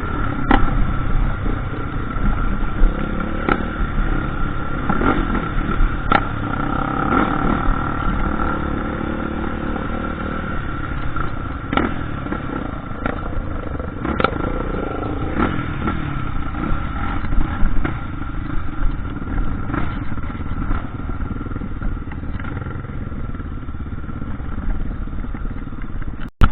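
Dirt bike engine running on a trail, the revs rising and falling, with scattered knocks and clatter.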